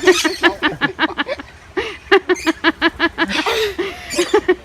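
A small child giggling, a quick run of short repeated laughs, pausing briefly and starting again twice.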